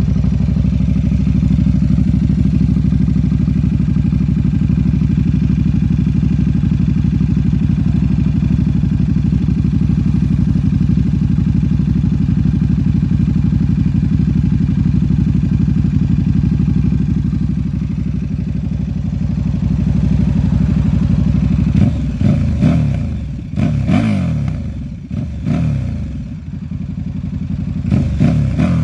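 KTM 1190 RC8's V-twin engine idling steadily just after starting, then blipped through several quick revs that rise and fall in the last seven seconds or so.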